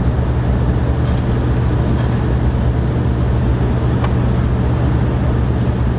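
A steady, low, engine-like machine drone at a constant level, with a few faint light clicks over it.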